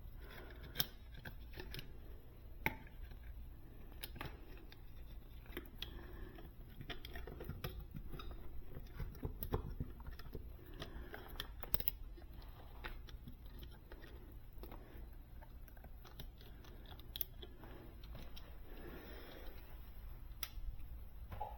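Scattered small clicks and snips of hand tools working on thermostat wires, with a low steady hum underneath.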